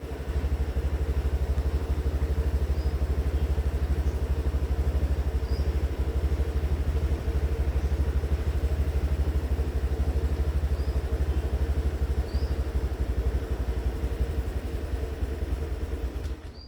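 A motor vehicle's engine idling steadily nearby, a loud low rumble with a fast even pulse. A few faint short high chirps come through it from time to time.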